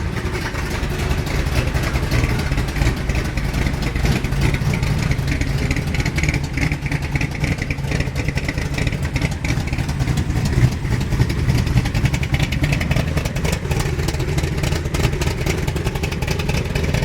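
Ford 427 side-oiler big-block V8 in a Cobra replica running at a steady idle, warming up after a cold start.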